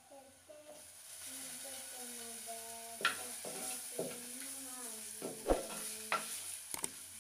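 Spices and oil frying in a clay pot, a steady sizzle, with a ladle stirring and clacking against the pot several times in the second half.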